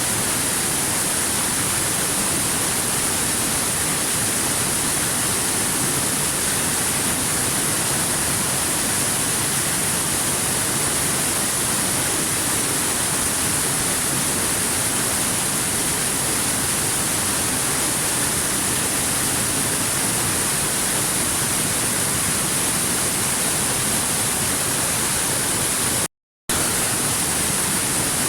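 Waterfall rushing steadily, an even wash of water noise with a strong hiss on top. Near the end it cuts to dead silence for a split second, then resumes unchanged.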